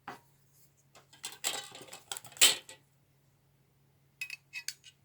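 A steel chef's knife being handled and measured: a rustle with one sharp knock about two and a half seconds in, then a few light metallic clicks that ring briefly near the end. A faint steady low hum runs underneath.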